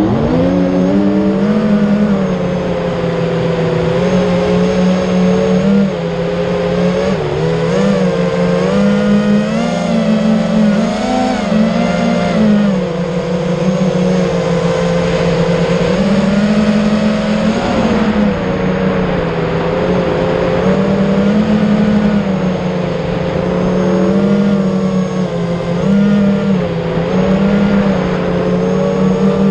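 FPV quadcopter's brushless motors and propellers whining continuously, the pitch rising and falling as the throttle is worked.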